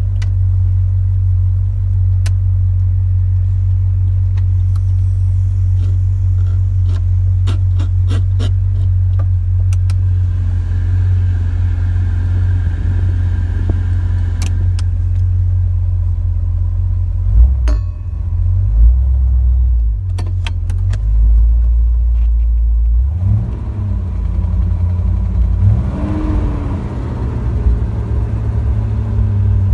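1972 Chevrolet Corvette's V8 engine running with a steady low rumble, with scattered clicks and a thump about halfway through. In the last few seconds the engine speed rises and falls, the pitch climbing and dropping.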